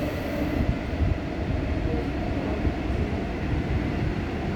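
New Woojin-built Busan Metro Line 1 subway train running between stations, heard from inside the car: a steady rumble of wheels on rail and running gear, with a couple of brief bumps about a second in.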